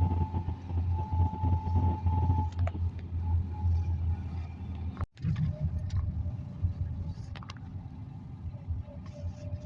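A car driving, with the steady low rumble of engine and road noise. The sound breaks off abruptly for a moment about five seconds in, then carries on.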